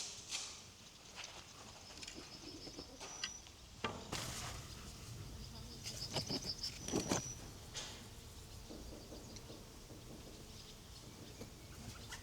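Small birds chirping in quick high trills and short whistles, with rustling and a few soft knocks from handling, loudest around the middle.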